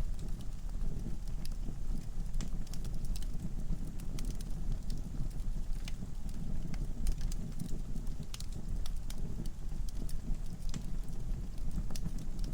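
Wood fire in a fireplace burning steadily, with a low rumble of flames and irregular sharp crackles and pops from the logs.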